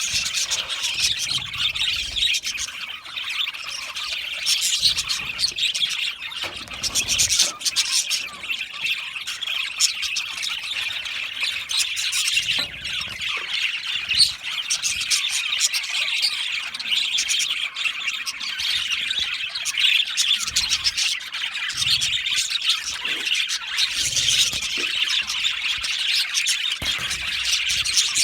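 A flock of budgerigars chirping and chattering continuously in an aviary, many high calls overlapping with occasional squawks.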